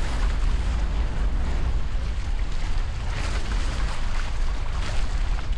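Wind rumbling on the microphone and water rushing past the hulls of a Hobie 16 catamaran under sail: a steady noise whose hiss surges now and then.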